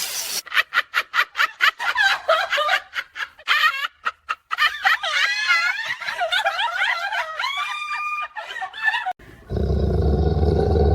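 High-pitched, cartoonish laughter: quick rapid-fire 'ha-ha' pulses that turn into squeaky, wavering giggles and squeals. About a second before the end, a steady low drone takes over.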